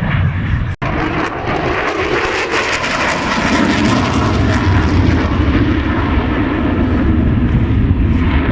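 Aircraft engine noise from a plane in flight, loud and continuous, swelling a little after a few seconds, with a momentary break in the sound just under a second in.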